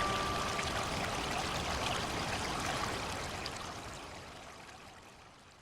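Flowing stream water, a steady rushing trickle, fading out gradually. A single soft melody note rings on for under a second at the start.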